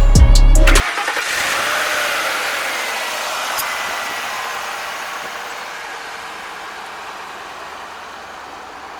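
Background music cuts off within the first second. A car's road and engine noise follows, fading steadily as it drives away.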